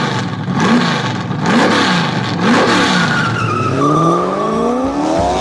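Car engine revving up and down in quick repeated revs, then one long rising rev near the end, with a thin high tone sliding slowly down above it.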